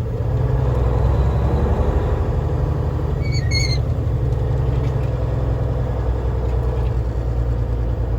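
Cab-interior drone of a Freightliner FLD semi's Cummins N14 inline-six diesel pulling steadily at low speed. A brief high squeak sounds about three and a half seconds in.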